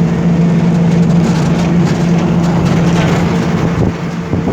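An engine running at a steady speed: a constant low hum over a continuous rushing noise.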